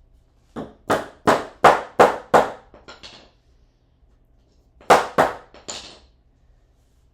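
Hammer blows in quick succession, about three a second: six hard strikes, then two lighter taps. After a pause of about a second and a half comes a second short run of three strikes.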